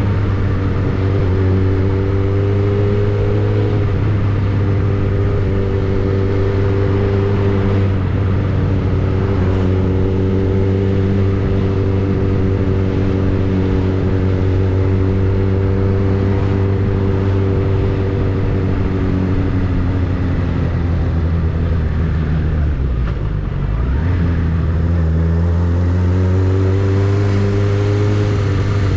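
Suzuki Bandit 600's inline-four engine and exhaust running steadily, its pitch shifting slightly a few seconds in and dropping briefly about two-thirds through before coming back up.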